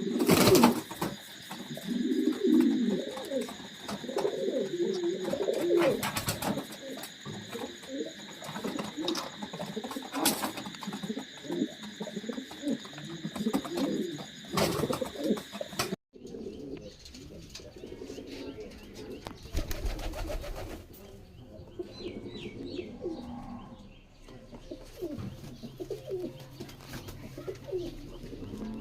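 Domestic pigeons cooing, several birds overlapping in low, repeated rolling coos. A steady high-pitched hum runs under the first half and stops abruptly about halfway through, with a few sharp clicks.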